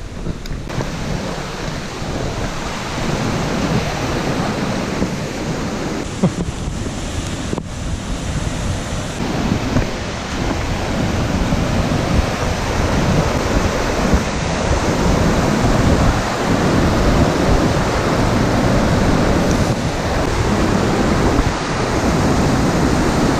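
Waterfall rushing steadily and growing gradually louder, with wind buffeting the microphone.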